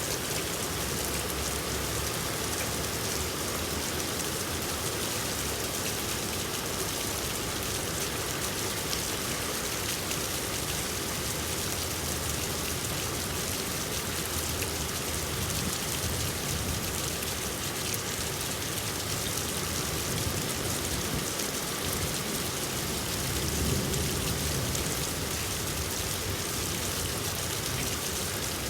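Steady rain falling and pattering on surfaces, an even hiss throughout, with a brief low rumble about three-quarters of the way through.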